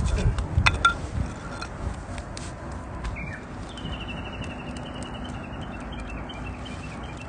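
Campfire crackling with a few sharp pops in the first second and a half, and a bird calling in the middle: a short falling whistle followed by a high trill lasting about three seconds.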